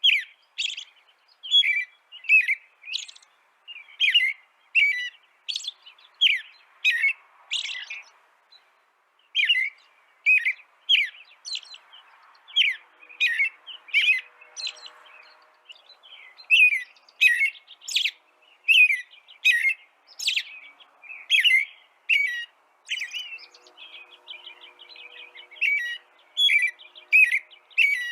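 A songbird chirping over and over: short, high, sharp notes about two a second, with a couple of brief pauses.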